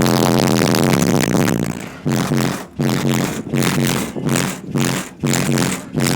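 Bass-heavy music from a truck's system of three 18-inch subwoofers: a held bass note for about two seconds, then bass hits pulsing on and off about one and a half times a second.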